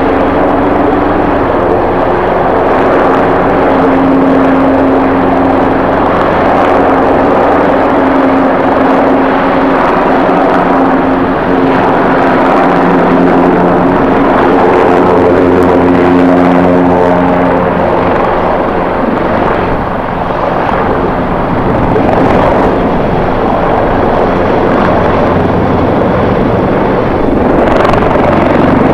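Jet airliner engines running, a steady hum with several held tones that shift about twelve seconds in and fade out a few seconds later, under heavy wind noise on the microphone.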